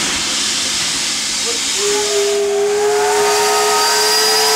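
Loud steam hiss from the steam locomotive, then about two seconds in its steam whistle sounds a long, steady blast whose pitch rises slightly as it goes on.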